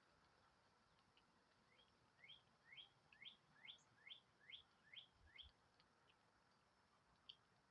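A songbird calling faintly: a series of about eight short rising notes, roughly two a second, followed by a single short note near the end.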